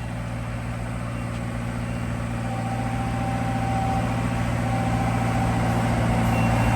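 Rippa RS20 skid steer's engine running steadily as the machine drives forward and raises its bucket at the same time, growing gradually louder. A steady whine joins in about two and a half seconds in.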